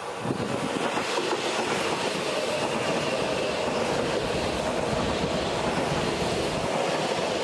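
Seibu 001 series Laview electric train passing close by, its wheels running over the rails. The sound swells as the front arrives, then stays steady and loud while the cars go by.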